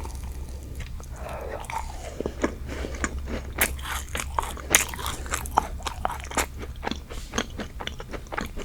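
Close-miked biting and chewing of a strawberry macaron, its crisp shell crunching in many quick crackles.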